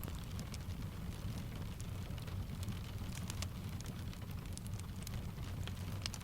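Steady rain mixed with the scattered pops and crackles of a wood fire, over a constant low rumble.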